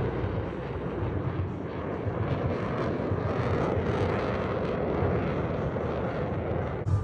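Twin-engine F/A-18 Hornet jets flying past, a steady deep rushing jet noise that cuts off suddenly near the end.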